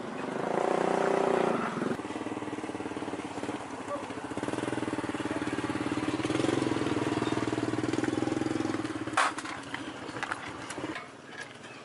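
An engine running with a steady hum, louder in the first two seconds and again about six seconds in, then stopping about nine seconds in with a sharp click.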